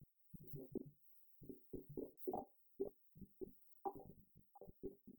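Faint, muffled talking in short broken bursts, low and dull-sounding.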